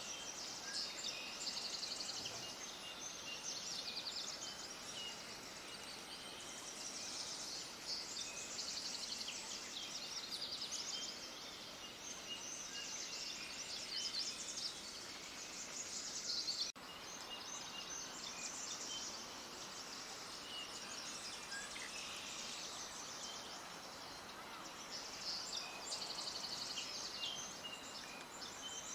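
A chorus of small songbirds chirping and twittering, high and rapid, swelling and easing in waves over a faint background hiss. The sound drops out for an instant about seventeen seconds in.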